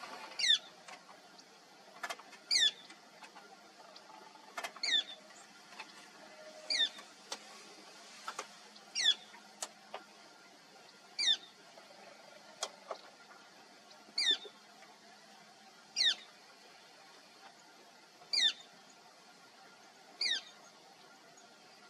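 Woodpecker calling: a short, high note that slurs downward, repeated about every two seconds, about ten times. A few faint clicks fall between the calls.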